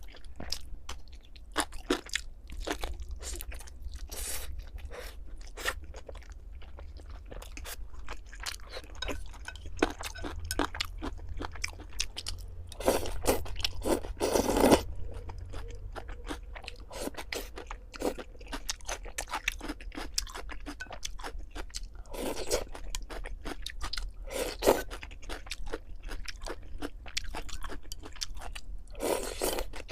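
Close-miked chewing and crunching of food: a steady stream of small mouth clicks and crunches, with louder, denser spells of chewing about halfway through and again near the end.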